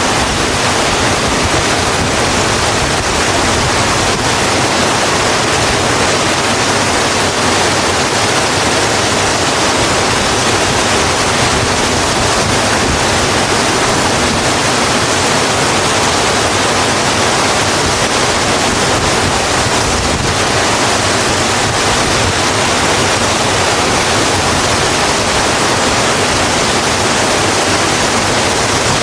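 Steady rain falling on a road: an even, unbroken hiss with no breaks or single drops standing out.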